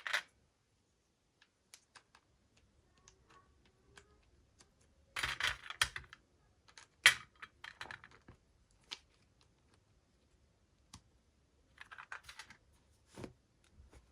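Scattered small clicks and short rustles of toy packaging being handled and opened, in clusters about five, seven and twelve seconds in, with a sharper click about seven seconds in and another near the end.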